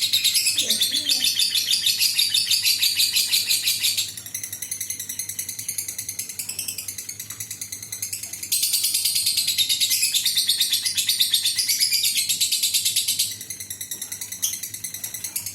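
Lovebird ngekek: a long, rapid, high-pitched chattering trill. It is loud for the first four seconds, softer for a few seconds, then loud again from about eight and a half to thirteen seconds before easing off.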